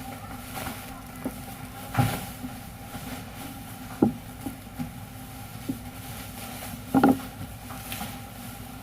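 Steady machine hum with sharp clunks about two, four and seven seconds in and a few lighter clicks between them.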